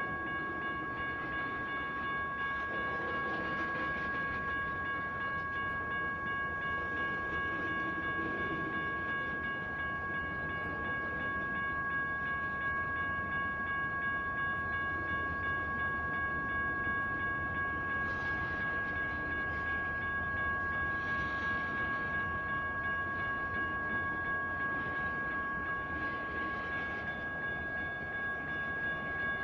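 General Signals Type 1 electronic crossing bells at a railroad grade crossing ringing without pause, their steady high tones over the rumble of a passing freight train.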